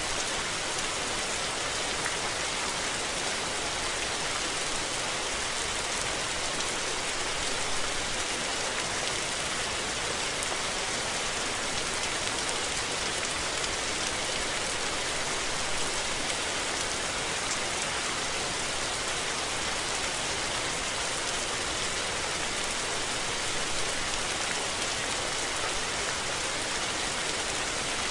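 Steady rain falling, an even hiss of drops with no letting up.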